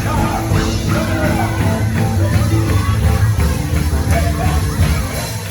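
A church band of children playing a worship song live with a full rock band, heavy bass and drum beat, and voices singing over it.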